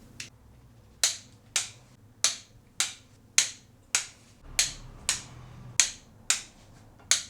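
Large click-type torque wrench clicking over and over as bolts are worked, a sharp metallic click about every half second.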